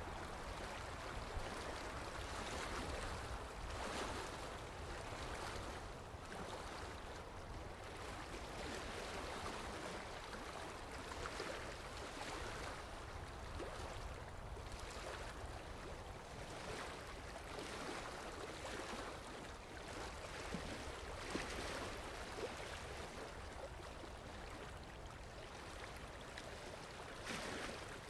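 Running water: a steady, even rush with small splashes scattered through it.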